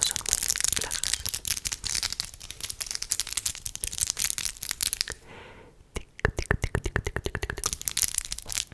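ASMR tapping and scratching: dense crackly fingertip scratching for about five seconds, a short pause, then a fast, even run of sharp taps until the end.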